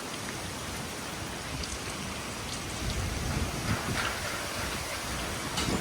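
Strong storm wind gusting through trees, a dense steady rushing with irregular low buffeting on the phone's microphone, swelling a little midway.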